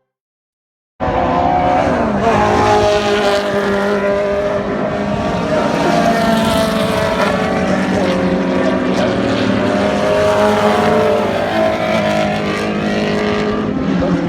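Race car engines running hard on a track, cutting in suddenly about a second in. Several engine notes rise and fall in pitch together.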